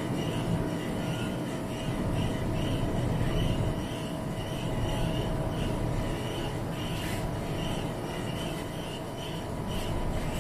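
Steady low outdoor rumble, like city or crowd background, with a faint high chirping repeating about twice a second and a couple of faint clicks late on.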